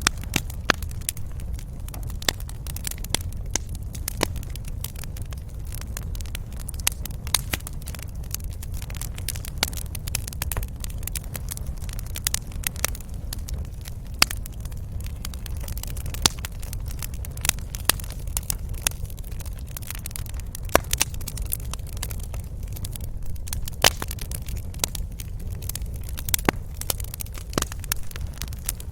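Wood fire in a fireplace crackling, with sharp, irregular pops over a steady low rumble of the flames.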